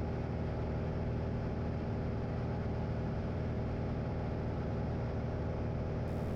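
Steady drone of a light aircraft's piston engine and propeller in cruise, heard from inside the cabin, holding an even pitch throughout.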